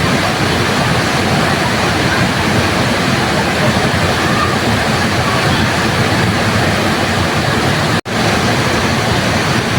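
Waterfall pouring steadily, a dense, even rush of falling water. The sound drops out for an instant about eight seconds in, then resumes.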